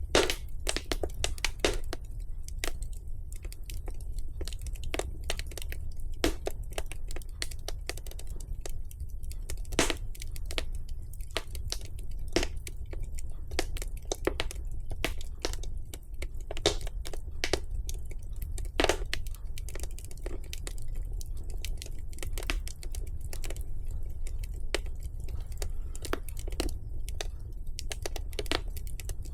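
Wood fire crackling in a fireplace: irregular sharp pops and snaps of burning logs over a low steady rumble of the flames.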